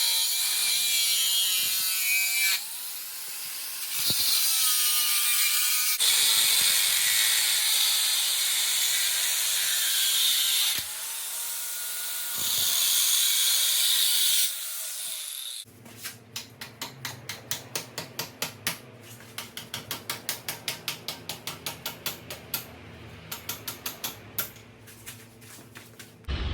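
Loud hissing noise in long stretches, some with a wavering whistle in it. About fifteen seconds in, it gives way to quieter, rapid, evenly spaced mechanical clicking, about three to four clicks a second, over a low hum.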